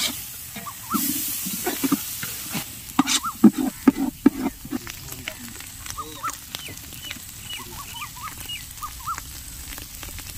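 Mutton boti (tripe and intestines) sizzling in hot oil in a metal pot while being stirred, with a run of sharp scraping clicks against the pot in the first few seconds, then a quieter steady sizzle.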